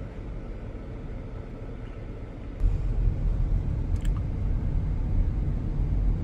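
Car driving, heard from inside: a steady low road and engine rumble that gets suddenly louder about two and a half seconds in and stays so, with a single short click about four seconds in.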